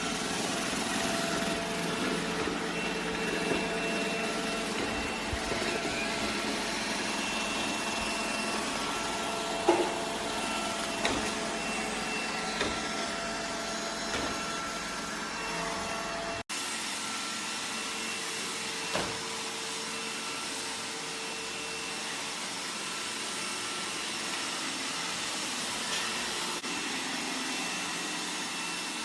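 Roomba robot vacuum running, a steady whir of its suction motor and brushes, with a few short light knocks.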